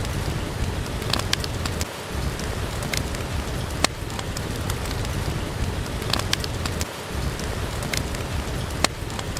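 Steady rain hissing on a surface, with a wood fire crackling: irregular sharp pops every second or so.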